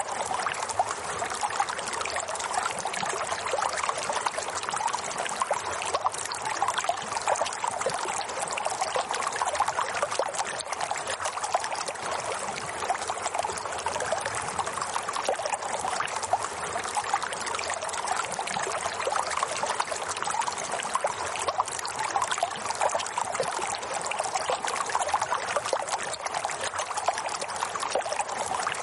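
Steady running water, trickling and splashing evenly without a break.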